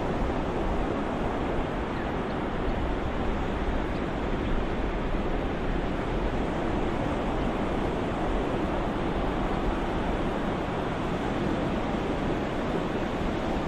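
Steady ocean surf noise: a continuous, even wash of waves with no single breaker standing out.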